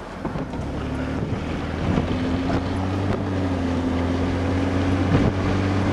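Car engine and road noise from inside the cabin as the car pulls forward, a steady low hum that sets in about half a second in and grows gradually louder.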